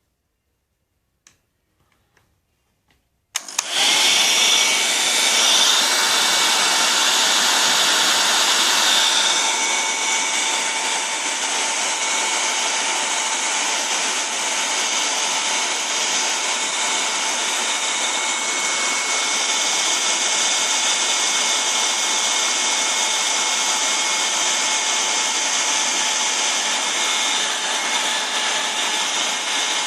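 Hair dryer switched on after a couple of clicks about three seconds in, then running with a steady rush of air carrying a thin, steady whine. It drops a little in level around nine seconds in and runs on steadily.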